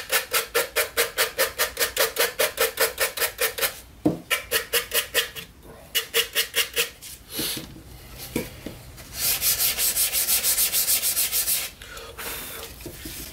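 Cedar edge sanded by hand with quick back-and-forth strokes, about five a second, in several runs with short pauses; the last run, about three-quarters of the way in, is faster and denser.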